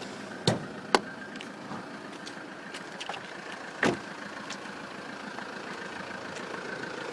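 2010 Alfa Romeo Giulietta's 2.0-litre diesel engine idling steadily. Three sharp clicks come about half a second, one second and four seconds in.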